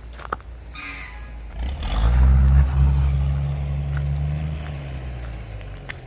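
A motor vehicle's engine comes up about two seconds in, runs steadily and loudly for a few seconds, then fades away, with a few light clicks around it.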